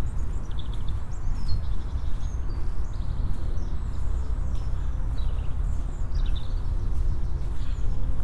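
Small birds chirping and twittering in short repeated calls, over a steady low rumble.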